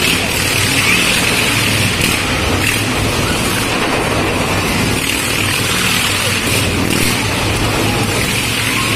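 Motorcycle engines running steadily at speed in a continuous loud din, their pitch shifting slightly as the riders circle.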